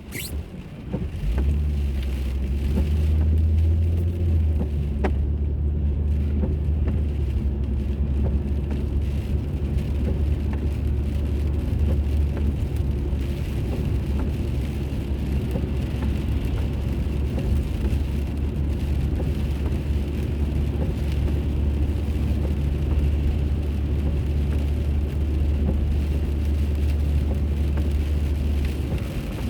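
Car being driven, heard from inside: a steady low engine and road rumble that sets in about a second in and holds.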